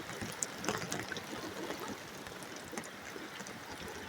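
Steady rain falling, with scattered drips and small splashes of water.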